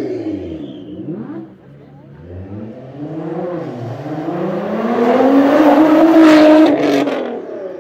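Nissan GT-R R35's twin-turbo V6 with a custom exhaust, revving under acceleration: the engine note falls away at first, then climbs to a loud peak as the car sweeps past close by. A couple of sharp cracks come just as the revs drop after the peak.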